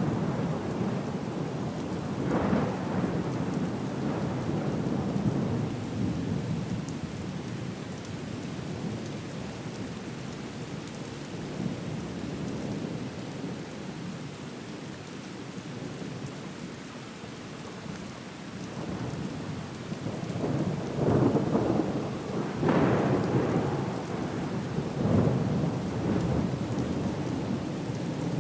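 Storm ambience of steady rain with rolling thunder rumbles, swelling about two seconds in and again several times near the end.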